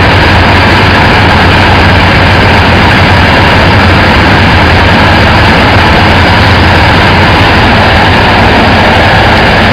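Rice husk carbonization furnace machinery running: a loud, steady drone with a strong low hum, unchanging throughout.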